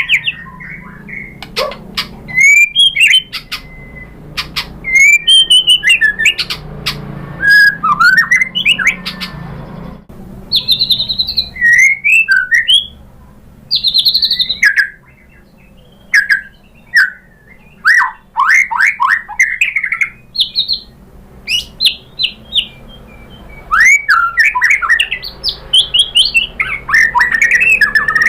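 White-rumped shama (murai batu) singing loud, stop-start phrases of fast whistled notes sliding up and down, mixed with sharp clicks, with short pauses between bursts.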